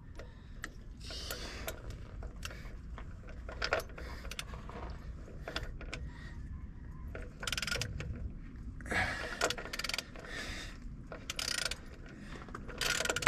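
Hand ratchet wrench working on an engine-mount bolt: irregular runs of ratcheting clicks and metal tool clinks, busier in the second half.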